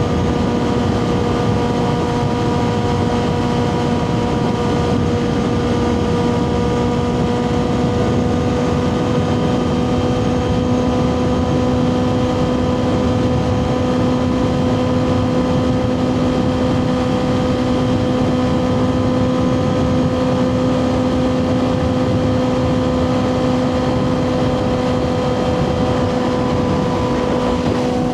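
Kawasaki ZX6R inline-four engine through a Two Brothers slip-on exhaust, running at nearly steady revs while cruising, over a low rush of noise.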